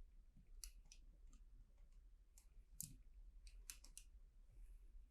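Faint, sparse clicks and taps of plastic LEGO pieces being handled and fitted together, about eight spread irregularly over near silence.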